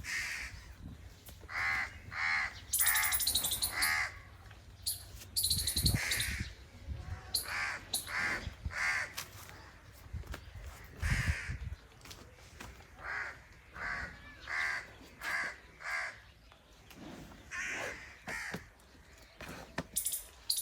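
Birds calling: runs of short, harsh calls repeated about twice a second, with a few higher squeaky chirps and two dull low thumps.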